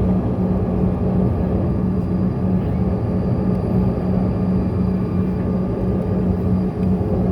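Bombardier CRJ-200's rear-mounted GE CF34 turbofans running steadily, heard inside the cabin as an even rumble with a constant low hum.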